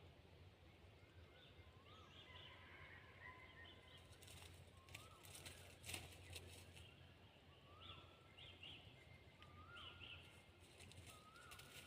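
Faint wild birdsong: one bird repeats a short rising-and-falling note every second or two, with other small birds chirping higher. A few sharp clicks or rustles come near the middle.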